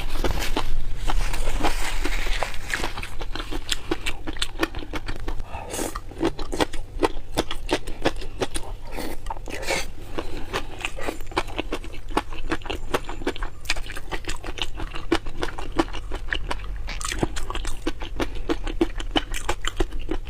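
A person biting and chewing crunchy shrimp in dense, irregular crunches and clicks, with a louder scraping rustle in the first couple of seconds.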